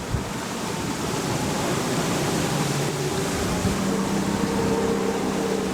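Speedboat under way on the sea: rushing water and wind, with a steady engine note that comes in about two-thirds of the way through.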